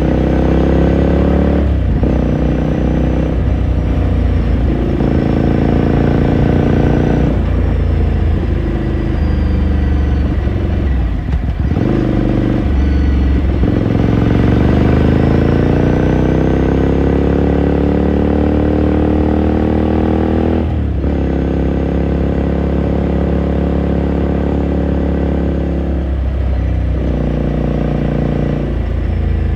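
2018 Ducati Scrambler Sixty2's 399 cc air-cooled L-twin engine running under way, heard onboard. The engine note drops off at several gear changes, with one long rise in revs about halfway through.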